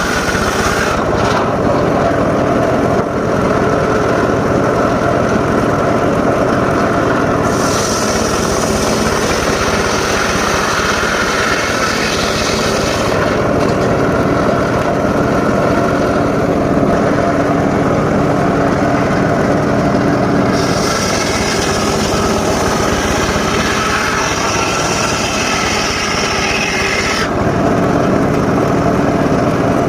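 Homemade circular saw running steadily, its blade cutting through mahogany wood twice, each cut adding a hissing, higher sound for about six seconds over the steady hum of the machine.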